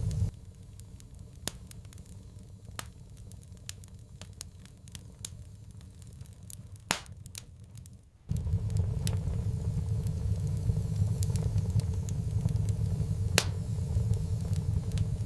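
Wood fire crackling, with scattered sharp pops. A steady low rumble cuts out at the start and comes back in about halfway through.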